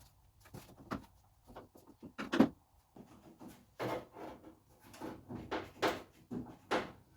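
Irregular clicks, knocks and clatter of hand tools and small metal fittings being handled as the handle, hinges and trim are unbolted from a car door, with the loudest knock about two and a half seconds in and a busier run of clatter in the second half.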